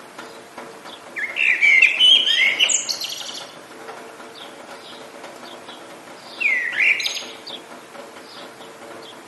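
Songbirds singing: two loud warbled phrases sweeping up and down in pitch, one about a second in and another past the halfway mark, with faint short chirps between them over a steady hiss of rain.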